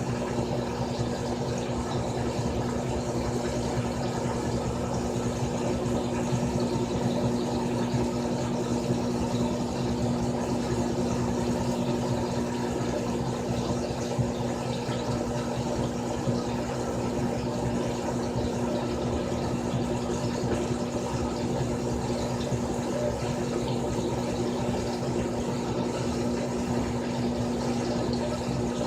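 Frigidaire Gallery Series top-loading washing machine (model FWS777GH50) running a cycle: a steady motor hum with water sounds.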